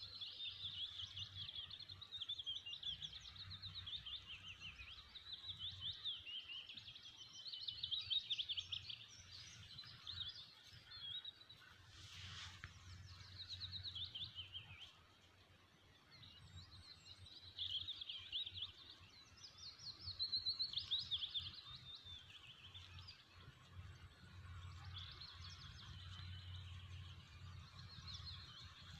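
Many small birds chirping and twittering at once, a dense chorus of high, rapid trills that swells and fades, over a low steady rumble. A brief rustling noise comes about twelve seconds in.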